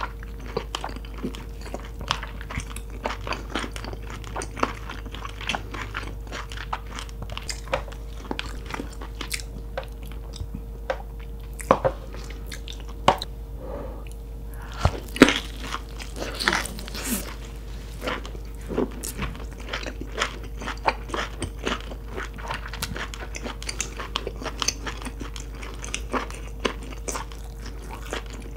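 Close-miked chewing of boiled lobster meat: many wet smacks and sharp mouth clicks, busiest around the middle.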